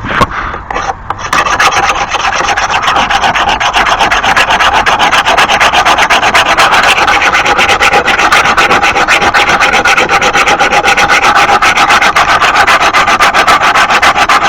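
Hand file drawn back and forth over a nicked, painted steel lawn mower blade in rapid, even strokes, sharpening the edge. The filing starts about a second in.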